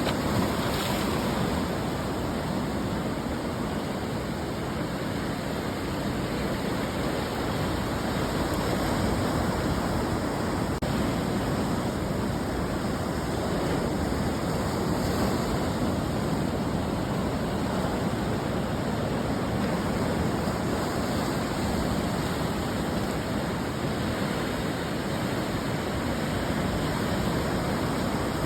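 Ocean surf washing on the shore: a steady rush of breaking waves that swells and eases now and then.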